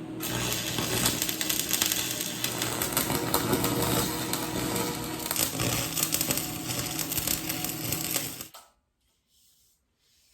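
Welding arc crackling steadily, a dense rapid sputter with a faint hum underneath, that stops abruptly near the end.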